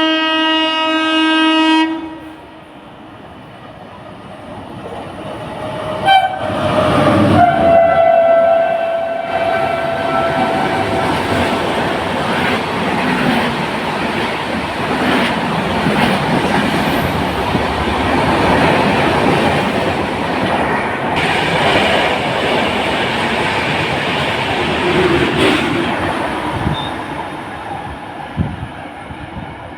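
Indian superfast express train passing: a horn blast for about two seconds, then a second, higher horn blast a few seconds later as the train arrives. The coaches then rush past with clattering wheels for about twenty seconds, fading near the end.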